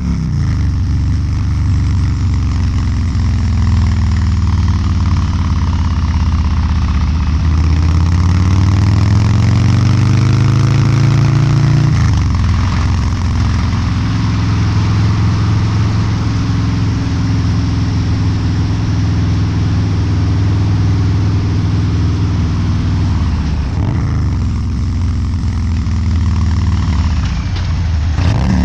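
Harley-Davidson Low Rider's 129 cubic inch V-twin running through a Two Brothers Racing exhaust on the road. About a third of the way in the engine note climbs for several seconds, then drops abruptly and settles into a steady cruise.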